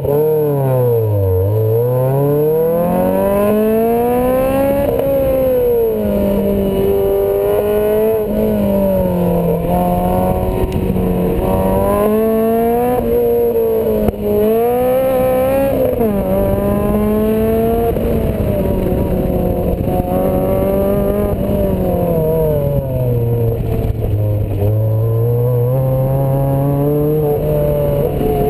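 Lotus Elise's four-cylinder engine working hard through an autocross run. Its pitch climbs and falls over and over as the driver accelerates, lifts and shifts, with a brief drop in loudness about halfway through.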